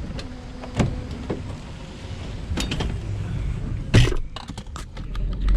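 Rummaging through a dumpster, with hard plastic plates and trash rustling and knocking together. There are a few sharp knocks, the loudest about four seconds in.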